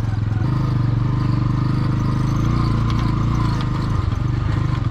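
Motorcycle engine running steadily under way, with a brief easing of the throttle about four seconds in.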